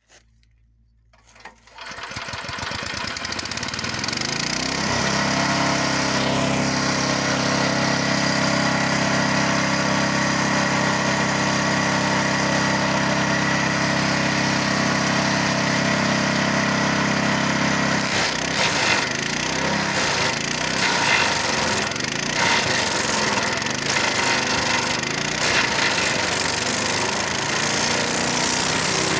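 Petrol engine of a Tirex TR 300 wood chipper (7 hp) coming up to speed about two seconds in and running steadily. From about eighteen seconds in, the steady run breaks up into irregular knocks and cracks as branches are fed through and chipped.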